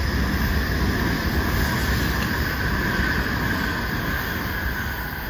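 Tokaido Shinkansen train passing close below at speed: a steady loud rush of wheel and air noise over a low rumble, easing slightly near the end.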